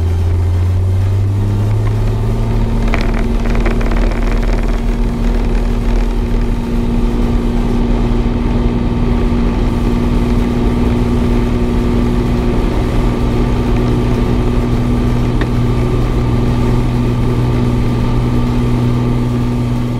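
Cessna 182's six-cylinder piston engine and propeller at full takeoff power. The pitch rises over the first couple of seconds as power comes up, then holds steady.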